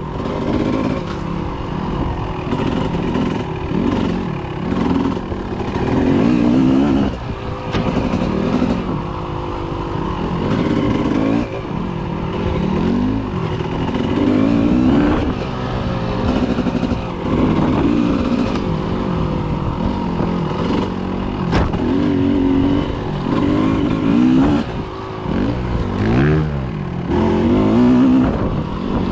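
Dirt bike engine revving while riding, its pitch climbing and dropping again and again as the throttle opens and closes.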